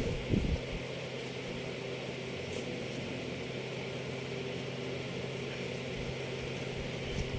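Steady mechanical hum of a running room appliance, with a couple of soft low knocks about half a second in.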